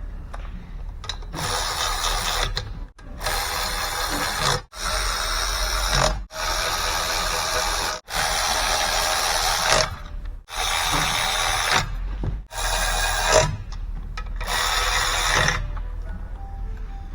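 A power tool runs in about nine separate bursts of one to two seconds each, with short pauses between them, as the exhaust manifold bolts on a MaxxForce DT diesel cylinder head are run down before final torquing.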